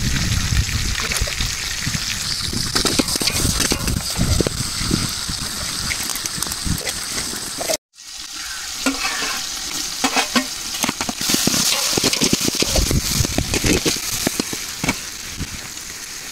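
Food frying and sizzling in hot oil in a pan while being stirred, with frequent short scrapes and clicks of the stirring spoon against the pan. The sizzle cuts out completely for a moment about halfway through, then resumes.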